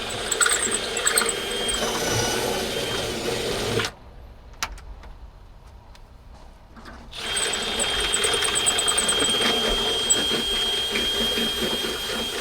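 Cordless drill boring holes through the car's sheet-metal fender, run twice with a steady motor whine, a short pause between the two runs.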